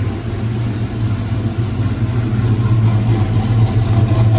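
Supercharged 416ci V8 in a Denali truck running at a steady idle, getting a little louder toward the end; the builder says its cam is way too big.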